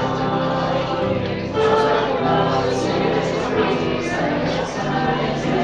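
Choral singing with accompaniment, a hymn or gospel song with sustained notes.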